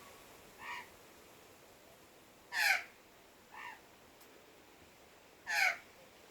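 Four short bird calls from birds at a backyard feeding spot: a faint one about a second in, a loud one near the middle, another faint one, and a second loud one near the end.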